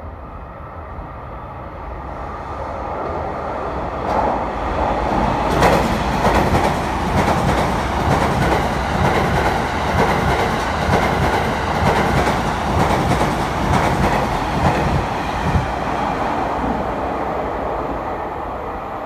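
JR East E001 series 'Train Suite Shiki-shima' passing through at speed, its wheels clattering very loudly over the rail joints in a quick run of clicks. The sound builds as it comes in, is loudest from about four seconds in, and eases off near the end.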